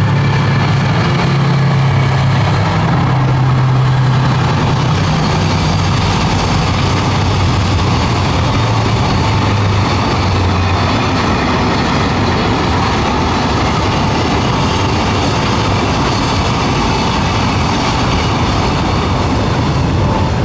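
A train passing, a loud steady rumble with a low engine drone that fades out about halfway through.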